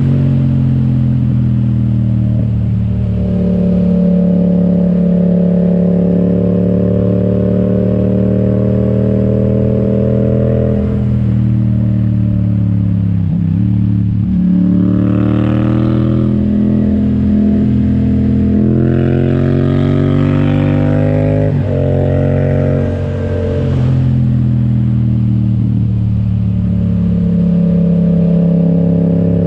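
Yamaha XSR700's parallel-twin engine through an Akrapovic exhaust while riding: a steady cruising note that dips sharply twice, about 13 and 21 seconds in, then climbs again as the bike accelerates.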